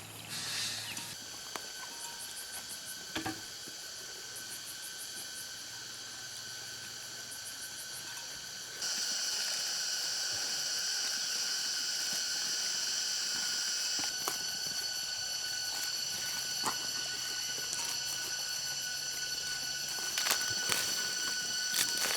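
Steady outdoor insect chorus: several high, unchanging buzzing tones with a few faint clicks. It steps louder about a third of the way in.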